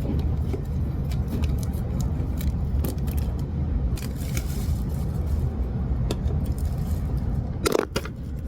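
Steady low rumble of a moving train heard inside the carriage, with scattered small clicks and scrapes of food and drink being handled at the seat, and a couple of sharper knocks near the end.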